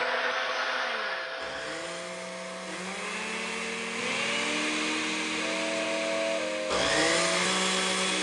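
Cartoon sound effects like engines revving: several rising whines that level off, layered over a loud rushing noise, with a louder surge near the end.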